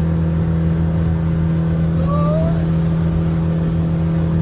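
Speedboat engine running steadily at speed, a loud constant hum with a brief rising tone about two seconds in.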